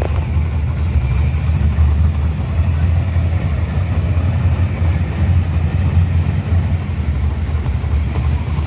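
1970 Plymouth Duster's engine running steadily at low revs as the car rolls slowly: a continuous deep rumble.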